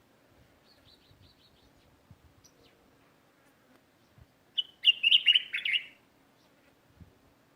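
Small birds chirping: a faint quick run of short high notes about a second in, then a loud burst of chirps a little past halfway through.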